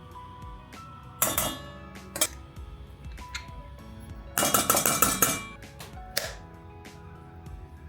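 Kitchen clatter of dishes and utensils over background music: a short clatter about a second in, a longer run of clinking and knocking in the middle, and a single knock a second later.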